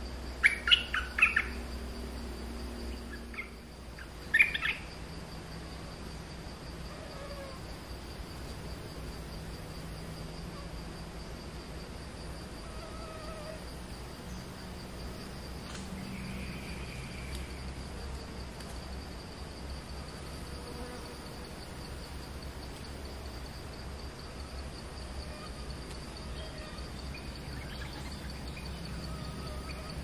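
A small songbird giving sharp bursts of chirps about a second in and again near four seconds, then only faint short calls, over a steady high insect drone.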